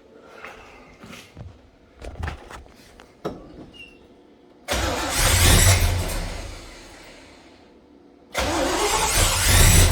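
A 1969 Chevelle's rebuilt 396 big-block V8 cranking on the starter and trying to fire, twice. Each attempt starts suddenly: the first about halfway in and dying away after a couple of seconds, the second near the end. A few light knocks come before them.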